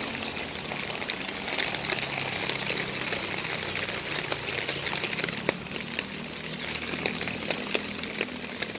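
Steady rain falling, with scattered sharp taps of drops striking a clear plastic umbrella overhead and a faint low hum underneath.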